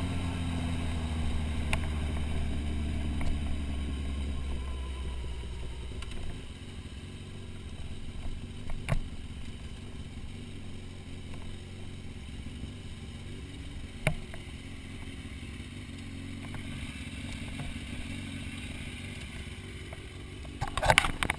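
Motorcycle engine running low and slowing, then switched off about six seconds in. After that come a couple of single sharp clicks, and near the end a flurry of knocks and rustling close to the microphone.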